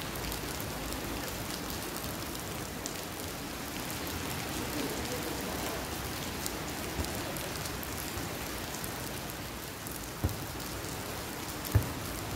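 Steady rain falling, an even hiss, with two dull thumps near the end.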